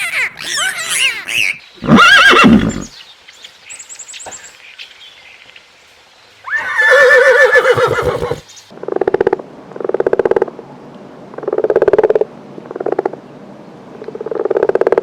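Horse whinnying: several loud calls that fall in pitch, then a run of about six shorter calls repeated roughly once a second.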